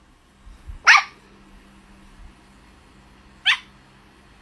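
A dog barking twice, two short sharp barks about two and a half seconds apart.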